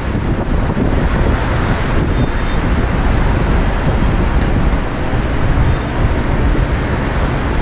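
Steady, loud rumbling noise at a railway platform as a Mumbai suburban electric local train approaches from a distance. A faint steady high whine runs through it.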